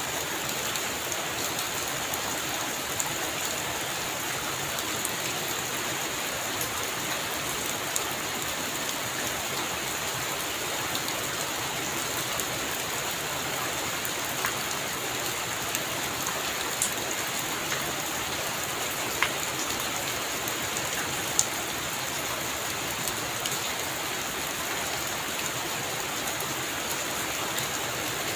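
Heavy rain falling steadily, a dense even hiss with a few sharper drop hits standing out now and then.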